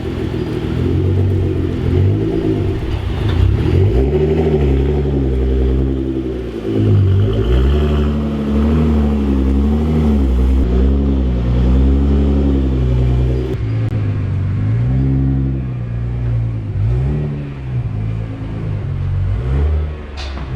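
Nissan R35 GT-R's twin-turbo V6, breathing through an aftermarket Y-pipe and cat-back exhaust, revving up and down repeatedly, its pitch swelling and falling every second or two.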